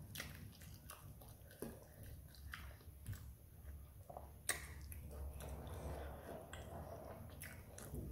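Close mouth sounds of someone eating fried tilapia by hand: faint wet chewing with scattered lip smacks and clicks, the sharpest about halfway through, over a low steady hum.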